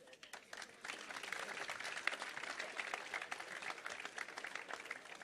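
Audience applauding, a dense patter of many hands clapping that builds about a second in and tapers off near the end.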